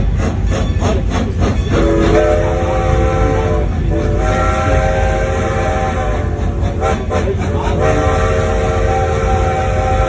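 A train horn sounding in three long blasts, the first starting about two seconds in, over the steady rumble of a moving train. Rapid clicking of wheels on the rails comes through before the horn starts.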